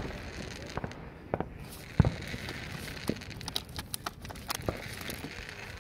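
Scattered sharp pops and bangs of fireworks, roughly one every half second to second. The loudest comes about two seconds in.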